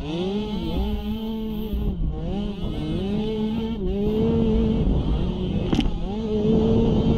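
Small youth (pee wee class) ATV engine being ridden: the revs rise and fall repeatedly as the throttle goes on and off, then hold steadier near the end. A single sharp click comes near the end.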